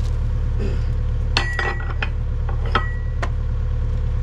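Steel parts or tools clinking and tapping together, about half a dozen sharp metallic strikes in the second half, some ringing briefly. A steady low engine drone runs underneath.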